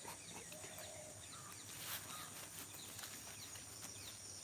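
Open-field morning ambience: a steady high-pitched drone of crickets and insects with many short bird chirps scattered through it, and one brief soft burst of noise about two seconds in.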